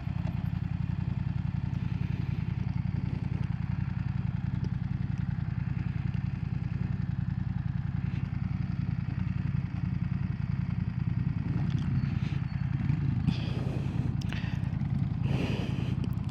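BMW F900R's 895cc parallel-twin engine running steadily while the motorcycle is ridden, with a few short clicks and rustles in the last few seconds.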